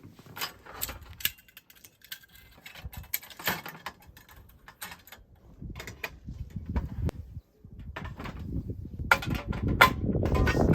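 Clicks, knocks and rustling of food and utensils being handled and set out to prepare a meal, growing into denser, louder handling noise near the end.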